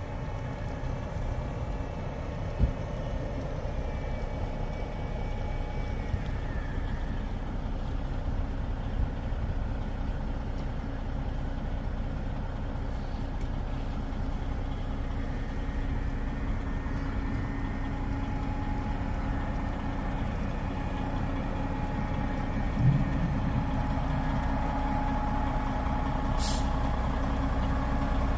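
Large truck engine running steadily at idle, a low rumble that grows slightly louder, with a couple of short knocks and a short sharp hiss near the end.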